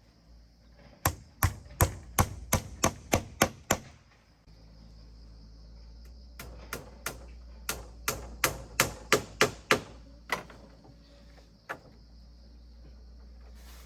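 A blade chopping against wood in two quick runs of sharp strikes, about three a second, with a couple of single chops after.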